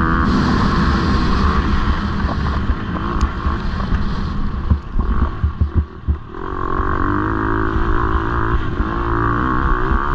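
Motocross bike engine running hard at a steady high rev. About halfway through it drops away briefly into a choppy, uneven sputter, then picks back up to full speed.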